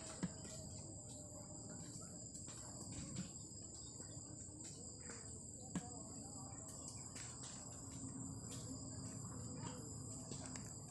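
Insects chirping steadily at a high pitch, with two brief soft knocks: one just after the start and one about six seconds in.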